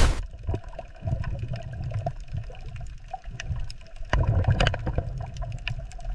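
Water sounds: scattered drips and splashes over a low rumble.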